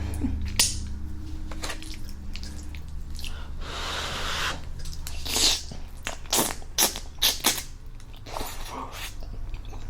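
Close-up mouth sounds of eating spaghetti with meat sauce: scattered wet clicks and smacks, a noisy rush about a second long near four seconds in, then a quick run of sharper smacks.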